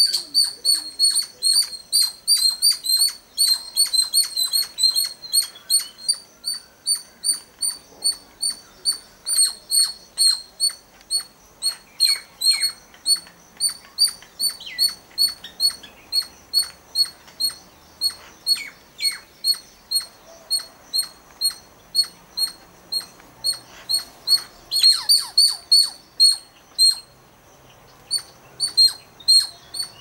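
Bird calls: a steady run of sharp, high chirps repeated about three times a second, with a few lower, falling calls breaking in around the middle and again about 25 seconds in. The chirping pauses briefly near the end.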